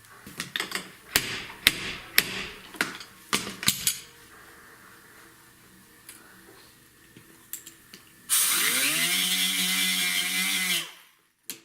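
Workshop tools clicking and clattering for a few seconds. Later a power tool runs for about two and a half seconds: it spins up to a steady hum with a strong hiss, then cuts off.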